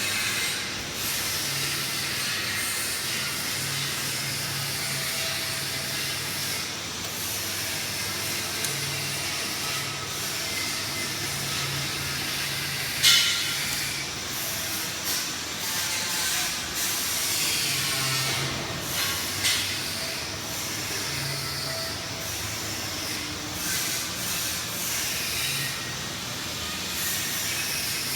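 PVC flexible duct forming machine running with a steady hiss and a low hum that comes and goes. There is a sharp click about halfway through and a few lighter knocks after it.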